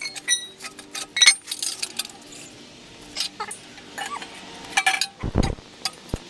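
Metal clinks and knocks from exhaust header parts and tools being handled, some with a brief ringing tone, and a heavy thud about five seconds in.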